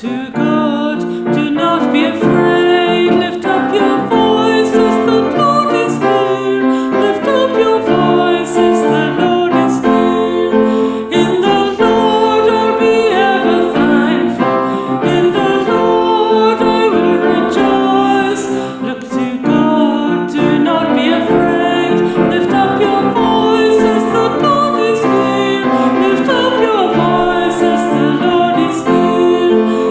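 Music: a Taizé chant sung with piano accompaniment.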